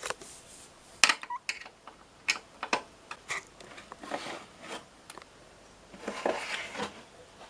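Scattered sharp metallic clicks and knocks with some scraping, from handling a desktop computer's metal case and parts while getting at its optical drive. The loudest knock comes about a second in.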